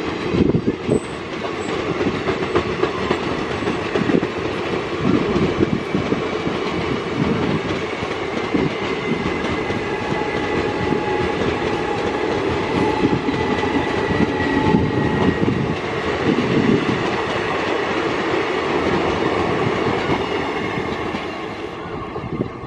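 Passenger coaches of a departing express train rolling past, their wheels clattering over the rail joints in a steady rumble. A faint high whine runs for several seconds midway, and the clatter drops away near the end as the last coach passes.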